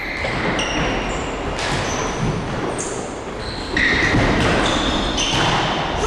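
Indoor mini-football match in an echoing sports hall: many short, high squeaks of players' shoes on the floor over a steady din of play, louder from about two-thirds of the way in.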